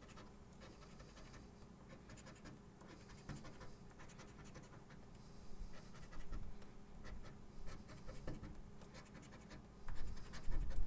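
Scratch-off lottery ticket being scratched, a coin or scraper rasping across the latex coating in short, irregular strokes, louder in spells from about halfway through.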